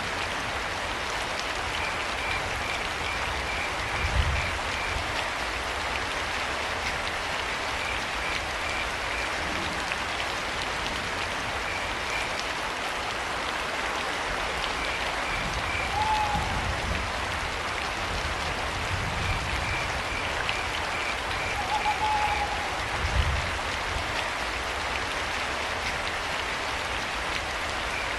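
Steady rain falling, with crickets chirping in short pulsed trains and an owl giving a brief call twice, about halfway through and again later. Two brief low thumps stand out, one early on and one near the end.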